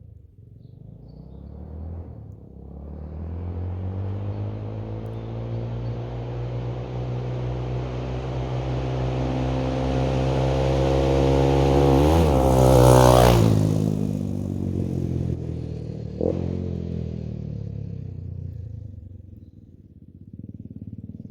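Honda NX125 single-cylinder four-stroke trail bike with a new exhaust, ridden hard in a drive-by: the engine note grows louder as it approaches, is loudest as it passes about 13 seconds in, then drops in pitch and fades away. A brief sharp clack comes shortly after it passes.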